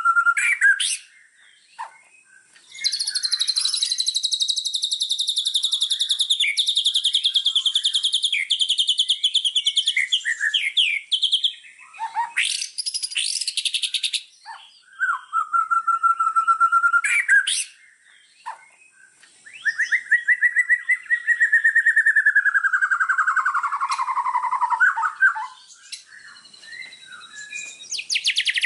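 Songbird song: a steady whistled note at the start and again about halfway, long fast high trills and chatter, and a fast trill sliding down in pitch about two-thirds of the way through.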